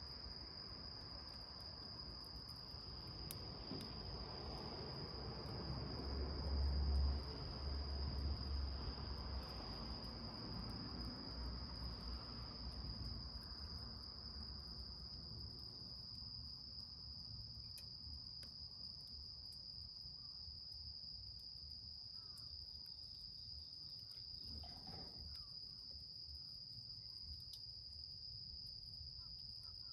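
Insects trilling in one steady, continuous high tone. In the first half a rushing noise swells up, loudest about seven seconds in, then dies away.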